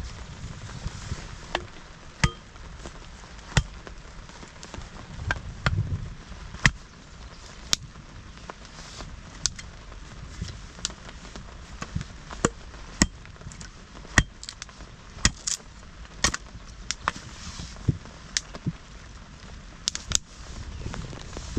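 Sharp short knocks or cracks, roughly one a second and slightly irregular, over a steady hiss of rain.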